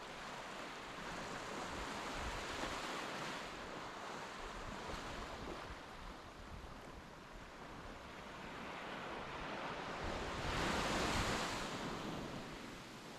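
Sea waves washing onto a beach, swelling and fading, with the loudest wave breaking about ten seconds in; some wind buffets the microphone.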